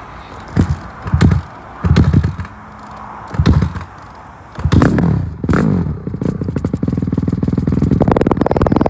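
Honda CRF150 dirt bike's four-stroke single-cylinder engine being started: several short bursts as it turns over and sputters, then about six seconds in it catches and keeps running with a fast, even firing beat.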